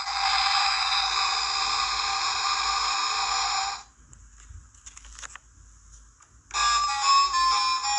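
A steady electronic buzzing tone lasting about four seconds, then a quieter stretch with a few soft clicks, then background music comes in near the end.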